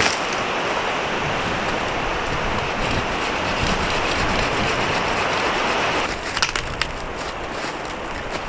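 Steady rushing of wind and rain, which drops away abruptly about six seconds in, followed by a few sharp clicks.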